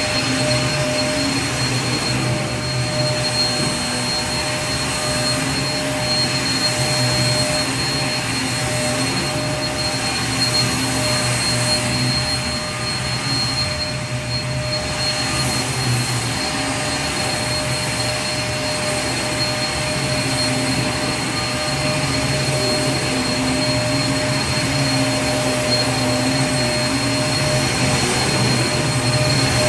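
Vacuum cleaner motor running steadily: an even rushing hiss with a constant high whine, a little softer for a few seconds about halfway through.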